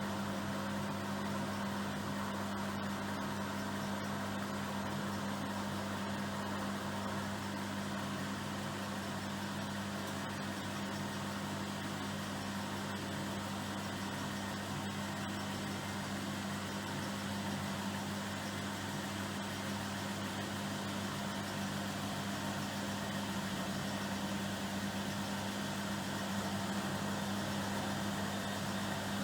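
Miele Professional PW 6065 Plus washing machine running with a steady, even hum.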